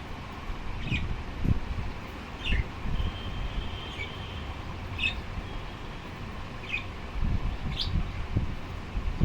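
A bird chirping: short high chirps every second or two, with a thin held whistle about three seconds in, over louder low thuds and rumble.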